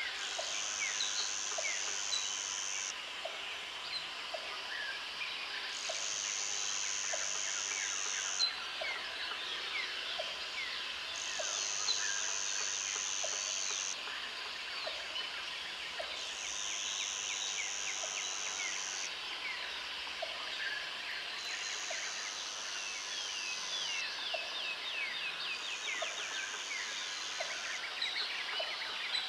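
Tropical forest ambience: a high insect buzz switches on for about three seconds at a time, roughly every five seconds, over many birds chirping and whistling, with a soft regular ticking underneath.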